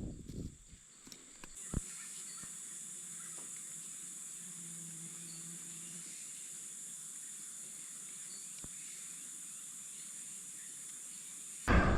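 Rainforest insects droning steadily in a high-pitched hiss that sets in about a second and a half in. A brief loud noise comes near the end.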